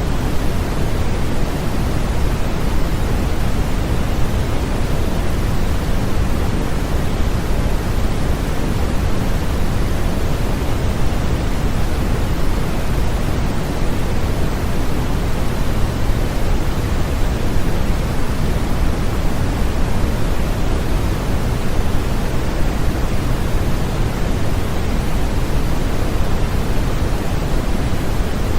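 Steady, continuous synthetic noise of the pink-noise kind, even and unchanging, heavier in the low end than the high, played as a sleep aid for babies.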